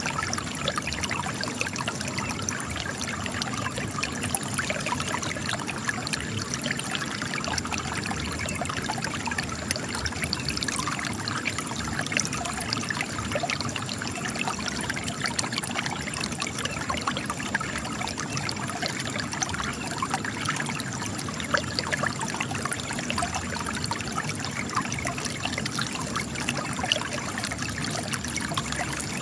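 Spring water trickling and splashing as it spills from cracks in rocks, a steady fine bubbling with no pauses.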